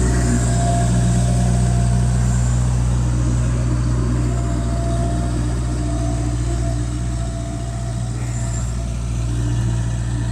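Bobcat 763 skid steer's diesel engine idling steadily, with a low, even hum that dips slightly in level in the second half.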